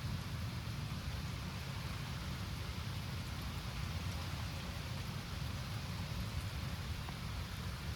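Steady rain falling on surfaces, with a low rumble underneath.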